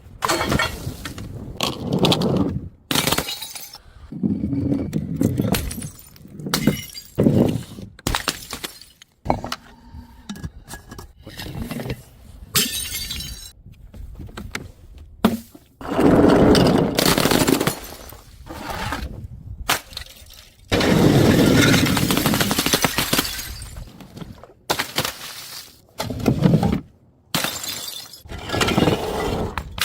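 Glass bottles smashing one after another, each a sudden crash followed by tinkling shards, in a run of separate breaks with short gaps between them.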